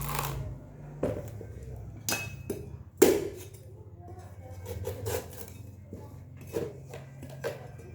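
A blade chopping into a young coconut: about six sharp knocks at uneven intervals, the loudest about three seconds in, over a steady low hum.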